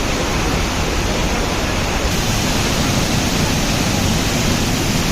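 Loud, steady rush of a roughly 30-metre waterfall, an even wash of falling water with no breaks.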